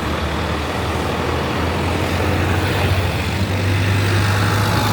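A motor vehicle's engine running with a steady low hum that rises slightly in pitch over a few seconds, amid dense background noise.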